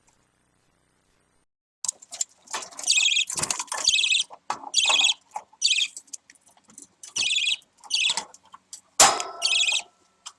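Budgerigar chick giving a series of raspy, buzzy calls, about eight in a row, starting about two seconds in; a sharp knock comes near the end.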